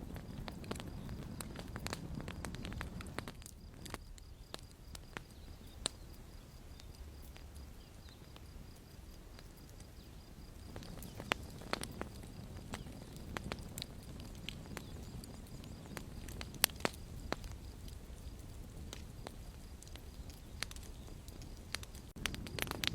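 Campfire crackling: irregular sharp snaps and pops of burning wood over a low, steady rumble of flame, with a few louder pops standing out.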